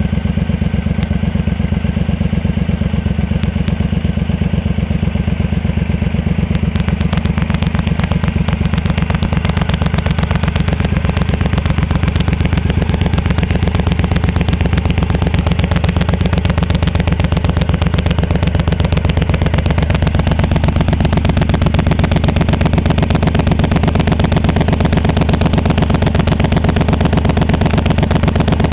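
Triumph Scrambler's parallel-twin engine running steadily at idle through an aftermarket Mass Mohave exhaust, a continuous train of even exhaust pulses.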